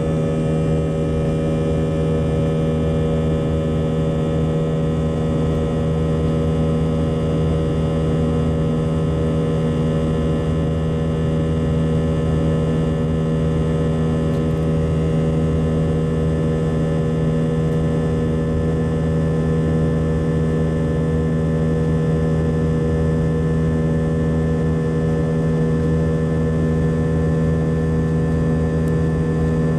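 Airliner's jet engines heard from inside the cabin in flight after takeoff: a steady drone with a strong low hum and several constant whining tones above it.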